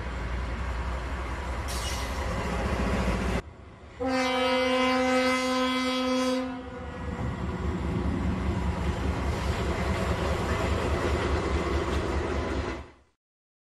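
A railway snowplow train ploughing through deep snow with a loud steady rush. After a break about three and a half seconds in, a train horn sounds for about two and a half seconds, then the train rumbles past with an even clatter of wheels until the sound cuts off near the end.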